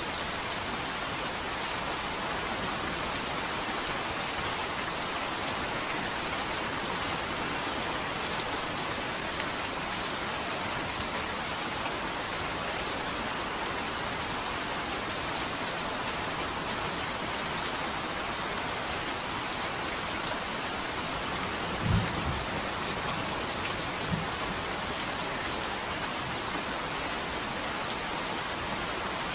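Steady, even rain falling and pattering on a surface. Two brief low knocks sound about two-thirds of the way in, the second weaker, two seconds after the first.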